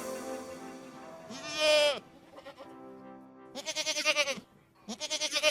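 Bleating livestock: three quavering bleats, about one and a half, four and five seconds in, over background music.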